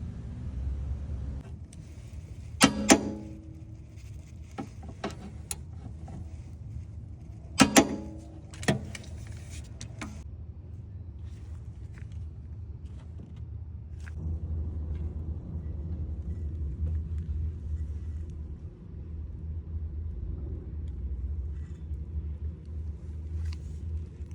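A few sharp metallic clinks, like tools or small metal parts being handled, some in quick pairs, over a steady low rumble that grows somewhat louder about halfway through.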